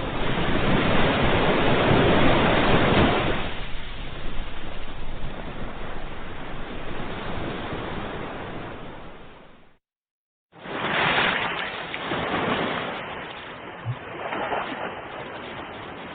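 Ocean surf: a wave breaking and washing in, then slowly ebbing. The sound cuts out to dead silence for under a second a little past halfway, then the surf comes back with smaller waves rolling in.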